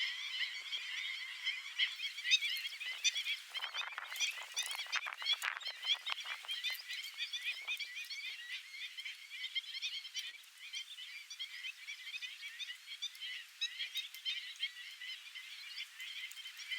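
A large flock of black-winged stilts calling: a dense, steady chatter of many overlapping short, high-pitched calls, with a run of sharper clicks about four to six seconds in.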